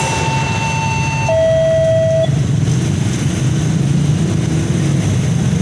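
Train horn sounding two steady notes, the higher one first, then dropping to the lower one for about a second before cutting off about two seconds in. Over a steady low rumble of the train running.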